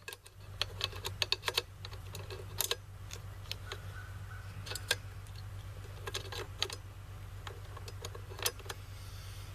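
Scattered sharp clicks and taps of metal parts being handled, as a scope mount is set onto an AR rifle upper's rail, over a steady low hum.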